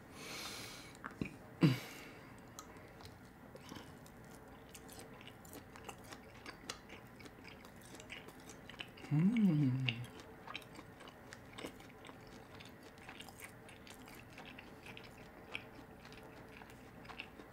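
A person chewing food, with scattered small clicks of a fork and knife against the meal tray and one sharper click near two seconds in. About nine seconds in, a short hummed 'mmm' rises and falls in pitch.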